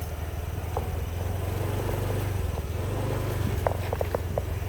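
Motorcycle engine running steadily while riding, a low steady hum with road and wind rumble. A few short chirps come near the end.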